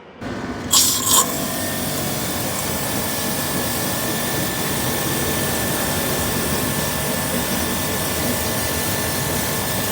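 A machine switching on and then running steadily, a loud even hiss with a faint steady whine, with a short louder hiss surge just under a second in.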